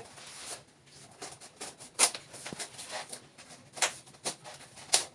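A few sharp clicks and taps over faint rustling, from a new refrigerator and its packaging being handled and checked over.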